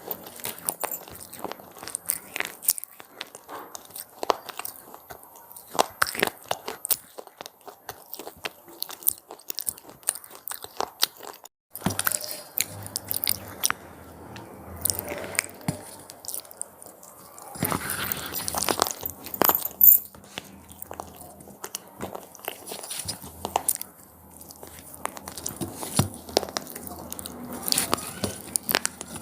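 Crunchy cheese-pizza-flavoured snacks being bitten and chewed close to the microphone, a continuous run of sharp crackling crunches. The sound drops out for a moment about twelve seconds in.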